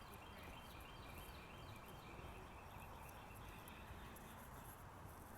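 A songbird chirping faintly, a quick run of short falling notes over the first couple of seconds, over a low outdoor rumble.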